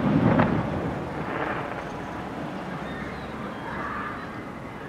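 Low rolling rumble and echo from an aerial firework shell's burst, fading over about the first second, then a quieter steady background until the next shell.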